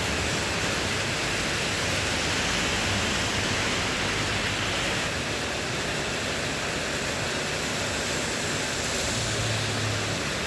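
Heavy rain pouring down in a steady hiss, with a faint low hum rising briefly near the end.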